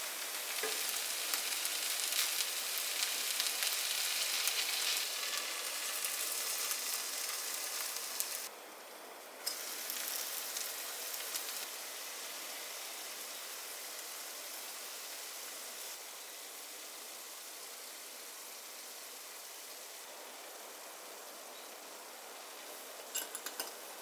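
Food sizzling in a frying pan, a steady hiss that drops out briefly about a third of the way in and gets quieter in steps afterwards.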